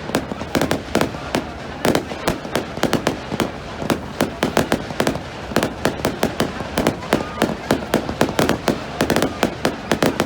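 Fireworks going off in a dense, rapid barrage of sharp bangs and crackles, several a second without a break.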